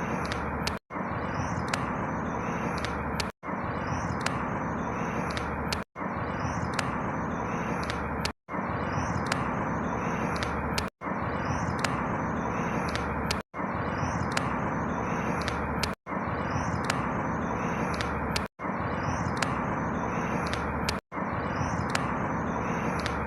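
Outdoor ambience: a steady rushing background with faint high chirps, a short clip looped about every two and a half seconds, cutting to silence for an instant at each restart.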